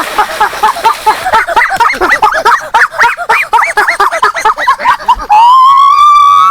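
Animals squealing: a rapid run of short, high calls, about five a second, then one long, loud squeal about five seconds in.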